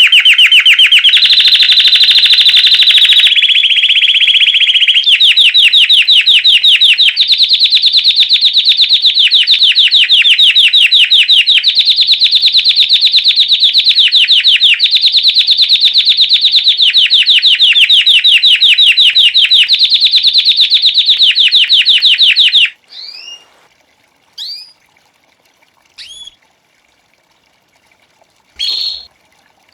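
White Belgian canary singing a loud, continuous rolling trill of very fast repeated notes, moving from phrase to phrase every second or two. It stops about three-quarters of the way through, and a few short separate chirps follow.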